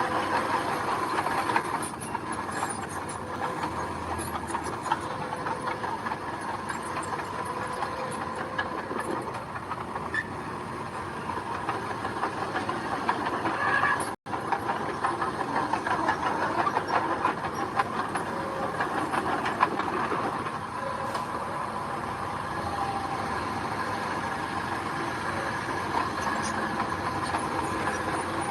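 A bulldozer working: its engine runs steadily and its steel tracks clatter, with a constant mechanical drone. The sound cuts out for an instant about fourteen seconds in.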